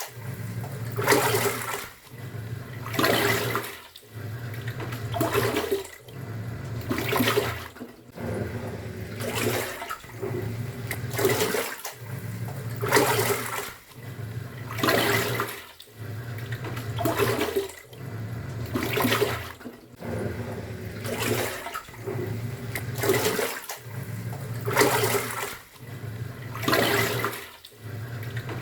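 Top-loading washing machine agitating a load in water: a low motor hum as the pulsator turns, with a swish of water about every two seconds and a brief pause each time it reverses.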